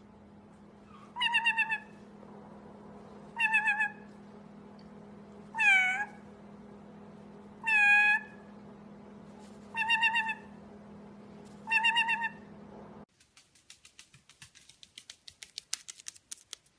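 Six meows about two seconds apart over a steady low hum, some with a wavering pitch and some dipping then rising. After them, a run of quick clicks that comes faster and louder near the end.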